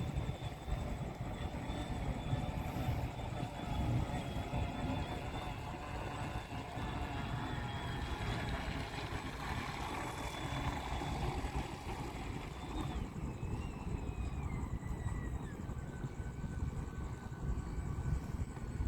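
Radio-controlled model Tyne-class lifeboat's electric drive whining steadily, its pitch falling in steps from about two-thirds of the way through as the throttle is eased, over a low rumble.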